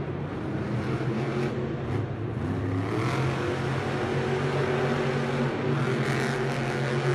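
Off-road truck engine running steadily, with the revs rising briefly about two to three seconds in.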